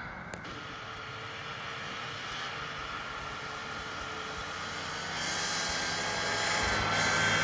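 Motor vehicle engine running steadily, getting louder and slightly higher over the last couple of seconds, with a single sharp click near the start.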